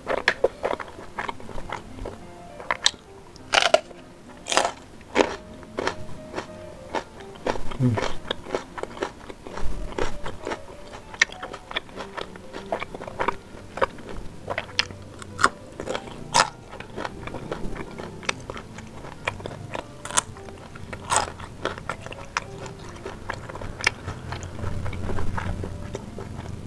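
Close-miked chewing of fried sempol (chicken-and-flour skewers) in spicy sauce: many irregular wet clicks and mouth smacks, with the next bite taken near the end.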